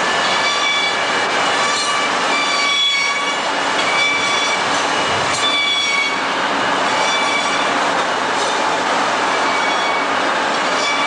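Steel plier heads held by hand against a running polishing machine: a steady, loud abrasive rush with high-pitched squeals that come and go every second or so as the part is worked.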